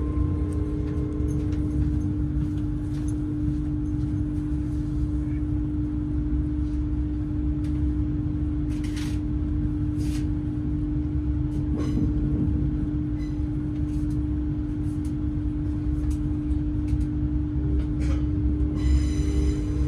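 Passenger train running: a steady hum over a low rumble, with scattered clicks and knocks. A high-pitched whine comes in near the end.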